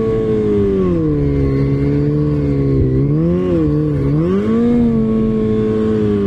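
Vehicle engine running under changing throttle while riding off-road: its pitch falls about a second in, climbs, dips sharply near the middle and rises again.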